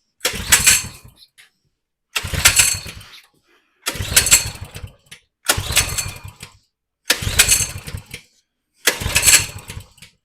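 Coleman 100cc minibike's four-stroke engine being pull-started six times in a row. Each pull gives about a second of cranking and sputtering, and the engine dies back to silence each time without catching and running.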